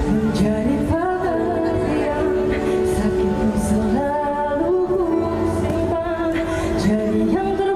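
Live pop concert: a woman singing held, sliding notes over a band, through a crowd recording's microphone.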